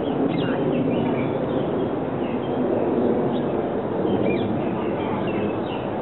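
Outdoor birdsong: many short, high bird chirps and slurred calls scattered throughout, over a loud, steady background noise.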